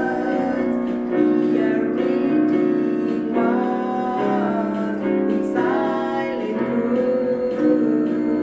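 Music: a simple children's song, a woman singing over keyboard accompaniment, with held notes.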